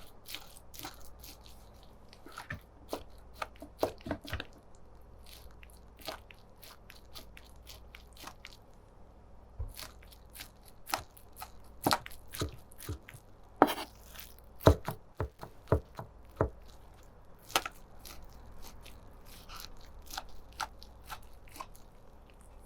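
Kitchen knife chopping food on a cutting board: irregular sharp knocks and taps, heaviest in the middle of the stretch.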